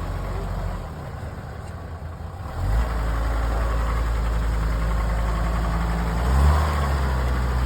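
Off-road 4x4's engine running slowly, then pulling harder about three seconds in and revving up near the end as the vehicle works through a slow off-road section.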